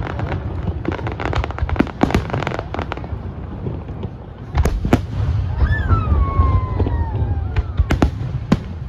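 Aerial fireworks going off: a quick run of crackling bangs, then single sharp booms, with a falling whistle lasting about two seconds in the second half, over a steady low rumble.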